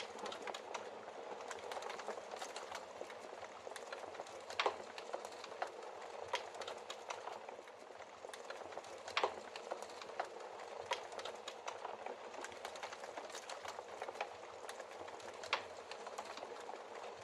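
Logs burning in a fireplace: a steady soft hiss with irregular crackles and a few sharper pops, the loudest about five, nine and fifteen seconds in.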